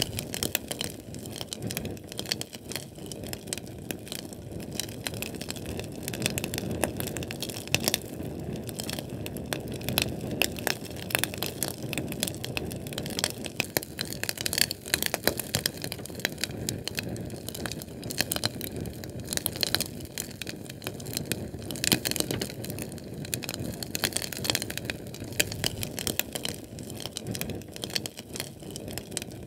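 Fire crackling: dense, irregular sharp pops and snaps over a steady low rushing of flame.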